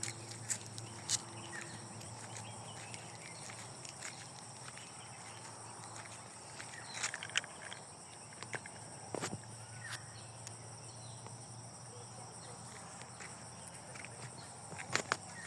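Steady high-pitched insect chirring, with scattered footsteps and a few short chirps over it.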